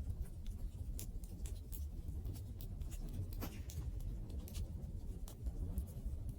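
Wood campfire crackling: irregular sharp pops and snaps over a low steady rumble of burning, with one louder pop about three and a half seconds in.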